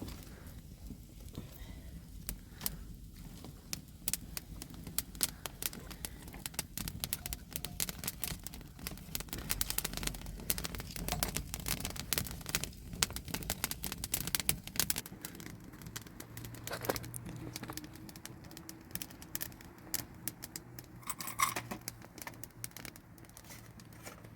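Many irregular sharp clicks and crackles over a low rumble, with a faint steady low hum in the last third.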